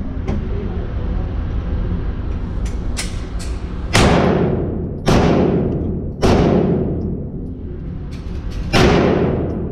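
9mm Glock 19 Gen 4 pistol, mounted in a CAA Micro Conversion Kit, fired four times, roughly a second apart with a longer pause before the last, each shot booming and echoing in an indoor range. Two fainter cracks come shortly before the first shot, over a steady low background hum.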